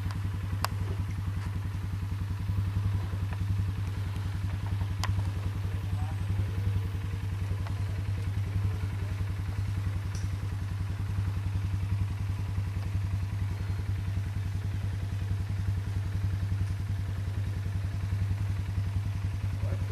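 An engine running at a steady idle, an even low hum with fast regular pulsing that does not rev or change, with a few light clicks over it.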